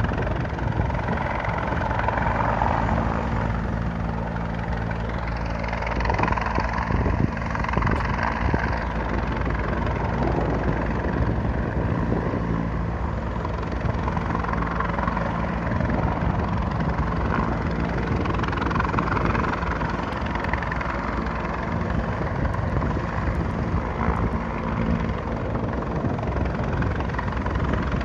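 Rescue helicopter running loud and steady: rotor beat and turbine noise.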